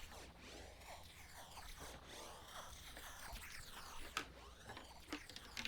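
Make Noise Echophon self-feedback loop: a faint, warbling noise texture that keeps sweeping up and down in pitch as the sequenced pitch and echo controls shift it. A few sharp clicks come near the end.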